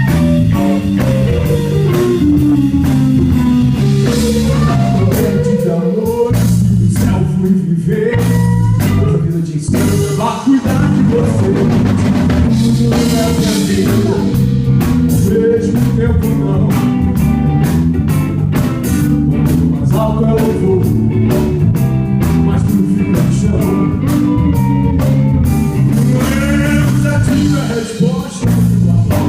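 Live rock band playing an instrumental passage: electric guitar, bass and drum kit, with a lead line that bends up and down in pitch over a steady beat.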